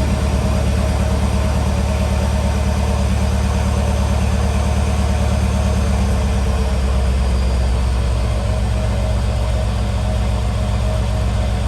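2018 Mercedes-Benz GLS550's twin-turbo V8 idling steadily after a cold start.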